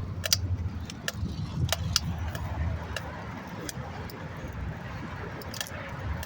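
Bicycle rattling and clicking while being ridden: irregular sharp ticks and rattles over a steady low rumble.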